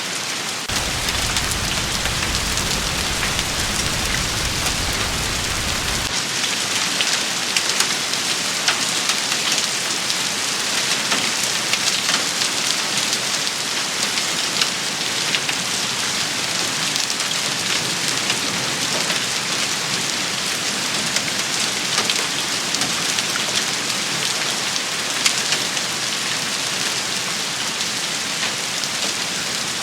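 Heavy rain shower, a dense steady hiss of drops with many sharp individual drop impacts. A low rumble runs underneath for the first few seconds and cuts off abruptly about six seconds in.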